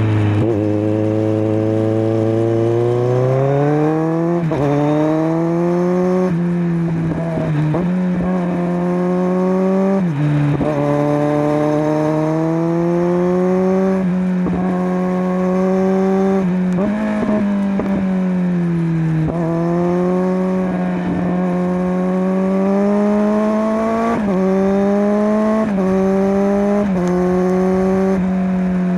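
Kawasaki Z900's inline-four engine through a LeoVince LV10 slip-on exhaust, heard from the bike while riding. The revs climb under acceleration and drop abruptly at each upshift, several times over, with a few stretches of steady cruising and one slower fall in revs as it slows.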